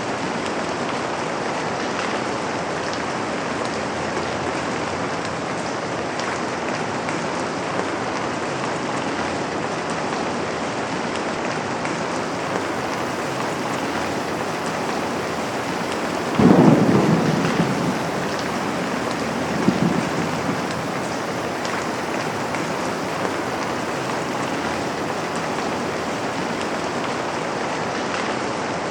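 Steady rain falling on a window. About midway a sudden crack of thunder rumbles and fades over a second or so, and a smaller rumble follows a few seconds later.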